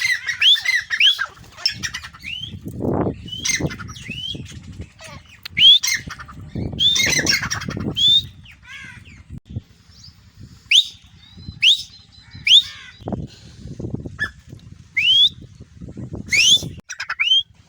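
Grey francolins (teetar) calling: a run of short, sharply rising notes, repeated many times and sometimes in quick series. Bursts of low rumbling noise come and go between them.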